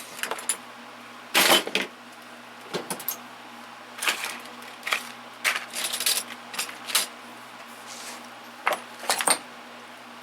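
Metal hand tools clattering and clinking as they are handled and set into toolbox drawers: a string of irregular knocks and jingles, the loudest about a second and a half in.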